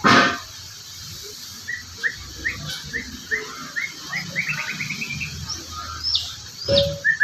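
A murai songbird singing: a run of short rising chirps that speeds up into a rapid trill, then a few high whistled notes sliding down. A sharp knock comes at the start and another near the end.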